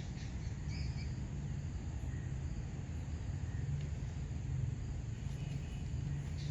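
Open-field ambience: a steady low rumble, with a few short high bird chirps, a pair of them about a second in and fainter ones later.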